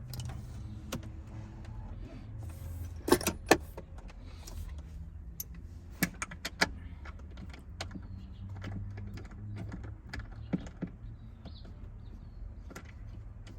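Scattered clicks and knocks of hand tools and metal parts being handled while 10 mm screws are undone, over a low steady hum. Two sharp knocks come about three seconds in and a quick run of clicks around six seconds.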